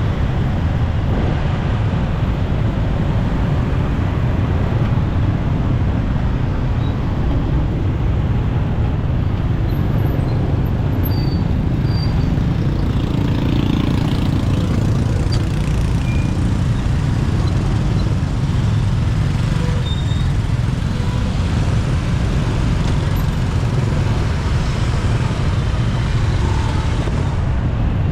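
Motorcycle riding through city traffic: a steady low rumble of engine, road and wind noise, with the sound of surrounding traffic.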